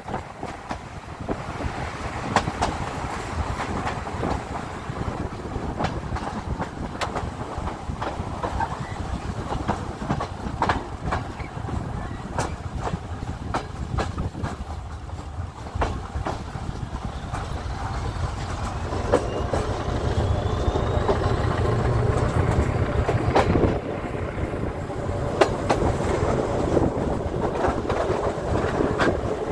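Regional passenger train hauled by an SU42 diesel locomotive pulling out of a station. Its wheels clack over rail joints and switches, and the diesel engine runs under load underneath, heard from an open carriage window. The running gets louder about two-thirds of the way in.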